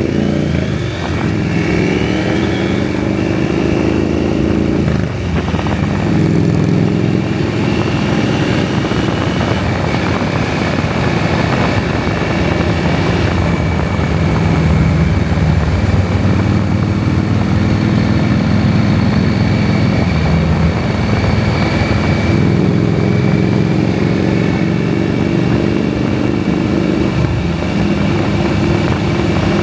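KTM 790 Adventure's parallel-twin engine running under way, its pitch rising and falling with the revs and dipping briefly twice in the first few seconds, over steady wind noise.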